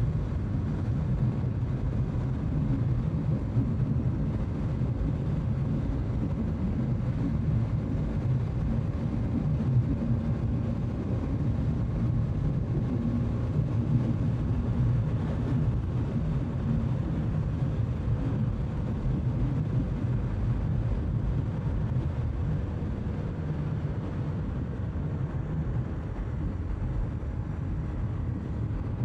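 Bajaj Pulsar NS200 motorcycle's single-cylinder engine running steadily at cruising speed, with wind and road noise.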